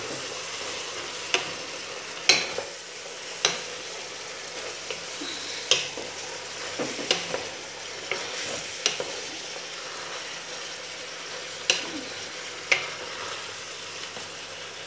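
Carrot strips and ground meat sizzling in a pot while a wooden spatula stirs them, with a steady frying hiss and irregular sharp clicks where the spatula knocks and scrapes against the pan.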